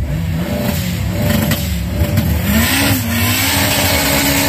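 Car engine revving up in steps, then held at high revs while the car launches with its tyres spinning and smoking, the tyre noise a loud hiss over the engine.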